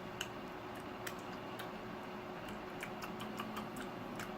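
Faint, irregularly spaced light clicks, more frequent about three seconds in, over a steady low hum.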